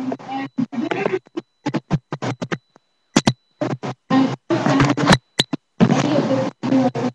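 A voice breaking up into short fragments, cut again and again by sudden dropouts to silence, so that the audio stutters and glitches.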